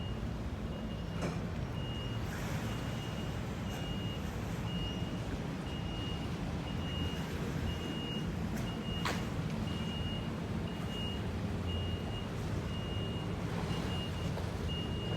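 A vehicle's reversing alarm sounding a steady run of evenly spaced high beeps, over a low engine rumble.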